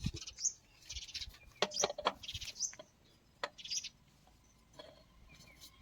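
Small birds chirping: short trilled calls, each ending in a quick rising sweep, repeated about once a second, with a few sharp clicks or knocks between them.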